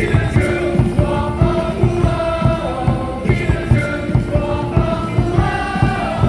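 Baseball stadium cheering song: loud music with a steady drum beat and many voices singing along.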